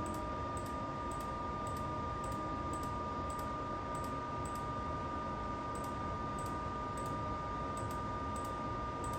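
Computer mouse clicking, a dozen or so clicks scattered irregularly, over a steady background hum.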